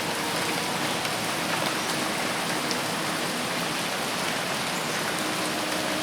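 Heavy rain falling steadily on forest foliage, a dense, even hiss of countless drops.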